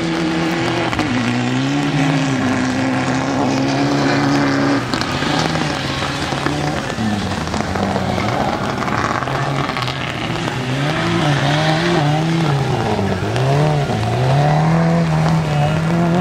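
Rally car engine revving hard under power, its pitch climbing and dropping again and again as the throttle comes on and off through a loose, muddy corner, with wavering revs in the second half.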